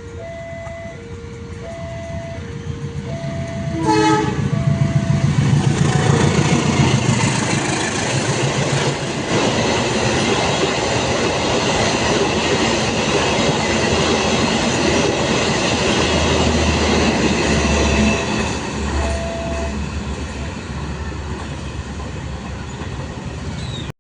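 Train passing close by a level crossing: a short horn blast about four seconds in, then a long, loud rush of wheels and cars on the rails that slowly fades. The crossing's warning signal, an alternating two-note tone, sounds at the start and faintly again later under the train.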